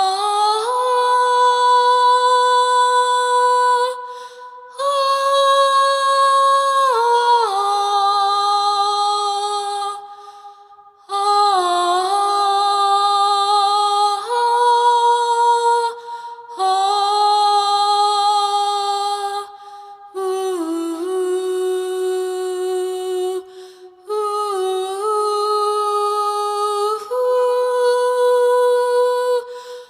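Humming or wordless singing in long held notes, each kept steady for several seconds with short breaths between, two pitches sounding together. The notes step between a few fixed pitches, with a brief slide at each change.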